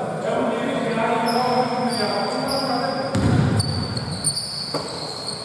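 Basketball game sounds: basketball shoes squeaking repeatedly on the court, a dull thud about three seconds in, and players' voices.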